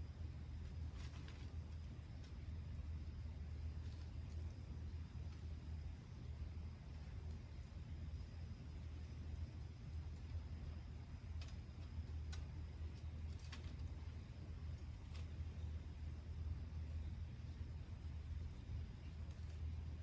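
A very high-pitched insect chirp pulses steadily about twice a second over a low steady rumble. A few faint sharp crackles, typical of a bonfire, come and go.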